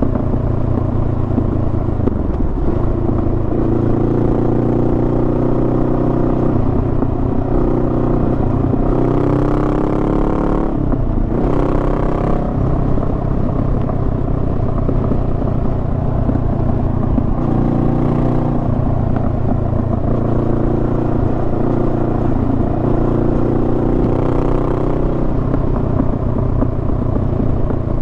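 Honda Rebel 500's parallel-twin engine running steadily under way. About ten seconds in, the engine note drops and then climbs again.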